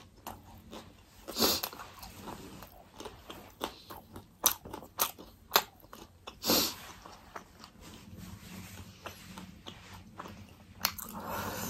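A person chewing a mouthful of fried momo with mouth closed: irregular small smacks and crunchy clicks, with a couple of louder bursts about a second and a half and six and a half seconds in.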